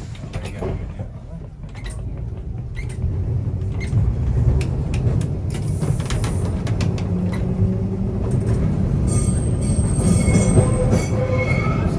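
Vintage electric tram running on its rails, heard from on board: a steady low rumble with irregular clicks and knocks, and a high wheel squeal starting about nine seconds in and lasting a couple of seconds.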